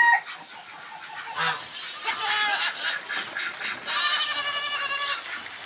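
Farmyard poultry calling: a string of short calls, then a longer, louder call lasting about a second, starting about four seconds in.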